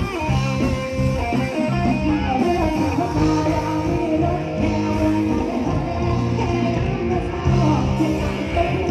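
Live band music: electric guitar, bass guitar and drums playing a steady beat, with a voice singing over it.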